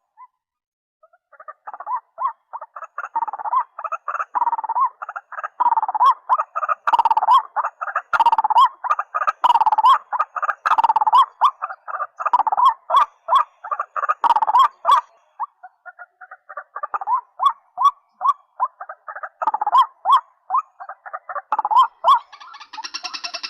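White-breasted waterhens calling: a fast, dense chorus of short repeated croaking notes at much the same pitch. It starts about a second in and thins to separate, evenly spaced notes in the second half.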